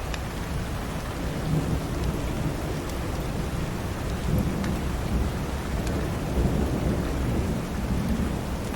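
Steady rain falling, with a low rumble of thunder that swells through most of the stretch.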